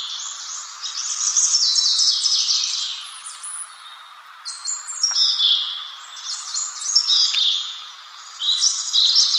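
Songbird singing in phrases of rapid, high chirps, several phrases with brief lulls between them, over a steady background hiss.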